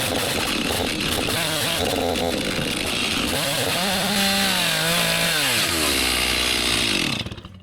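Two-stroke chainsaw running hard at high revs. Near the end the throttle is let off: the pitch slides down and the sound drops away.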